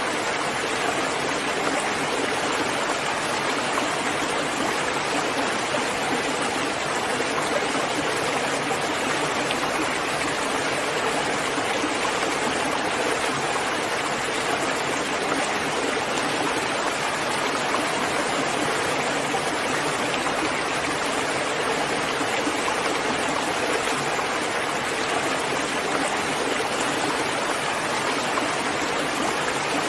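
Steady rain falling, an even, unbroken hiss of many drops with no separate patters or thunder.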